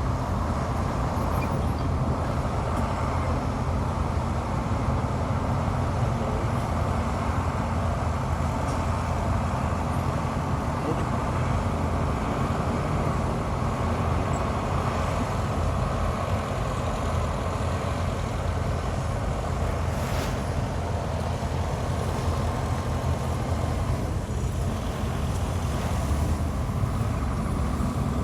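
Diesel engines of heavy earthmoving machinery, bulldozer and dump trucks, running steadily with a low, even drone.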